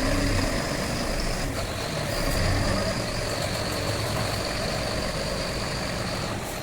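Heavy truck's diesel engine running steadily with a low rumble, a thin high-pitched whine held above it.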